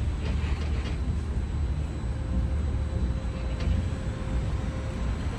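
Universal Studio Tour tram running, a steady low rumble heard from aboard, with a few faint clicks and rattles.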